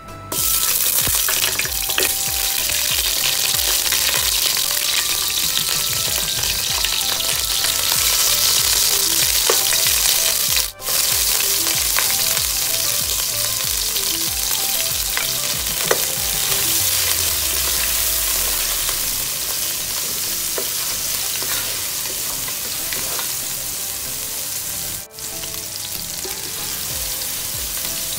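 Sliced onions and garlic frying in hot oil in a pot: a loud, steady sizzle that starts suddenly as the onions go in. It is dotted with clicks of a wooden spatula stirring and cuts out briefly twice.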